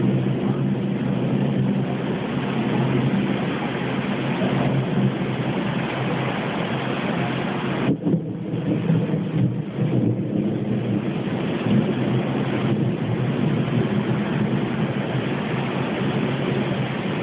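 Thunderstorm: steady rain with a continuous low rumble of thunder, thinning briefly about halfway through.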